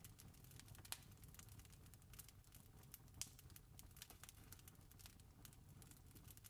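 Faint campfire crackling: irregular small pops and snaps from burning wood over a low steady rumble, with two louder pops about a second in and about three seconds in.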